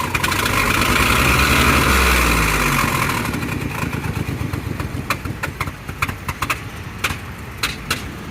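Ford Transit van engine revving briefly about a second in, then settling back to a rough idle with sharp, irregular ticks. The owner takes the noise for either a bad exhaust manifold leak or a spark plug blown out of the head, blowing out compression.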